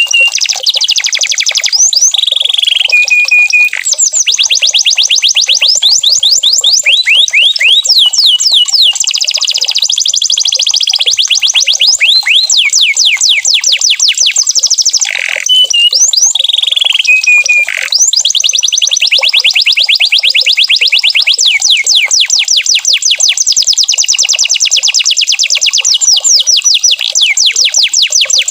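Domestic canary singing a long, continuous song of rapid trills, fast runs of repeated sweeping notes, broken by a few short held whistled notes and brief pauses.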